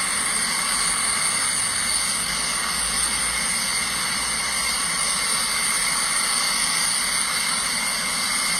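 Steady, loud vehicle running noise: an even hiss with a constant hum beneath it, unchanging throughout.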